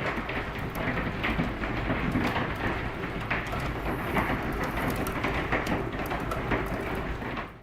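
Hail and rain pelting down: a dense steady patter with many sharp individual hailstone knocks. It cuts off suddenly at the very end.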